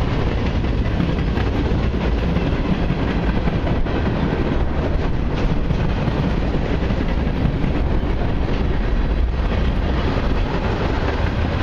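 Cars of a long CN mixed and autorack freight train rolling past, a steady loud noise of steel wheels on the rails.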